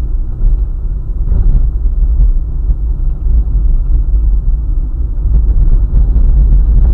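Road noise of a car driving on a highway: a loud, steady low rumble from tyres and engine.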